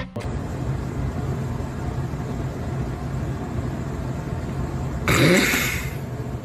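Steady low rumble, like road noise inside a moving car, with a louder, harsher noisy burst lasting under a second about five seconds in.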